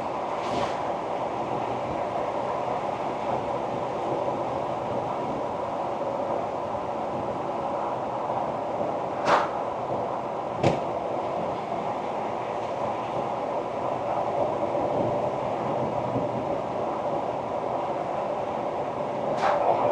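Ford Ranger Wildtrak pickup driving along, a steady rumble of engine and tyre noise. Two sharp knocks about a second apart come near the middle.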